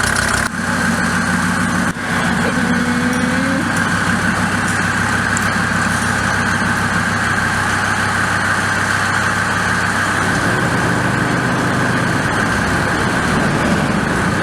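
Mercedes-Benz W124 250D's turbocharged OM602 five-cylinder diesel running steadily, with two brief dips in level in the first two seconds.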